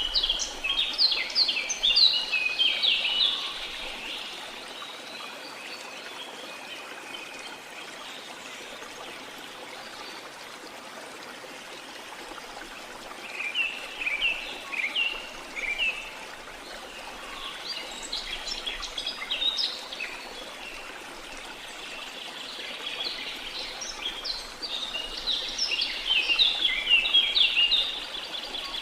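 Rain forest ambience: a steady flowing stream under several bursts of rapid, chirping birdsong, loudest near the start and again near the end.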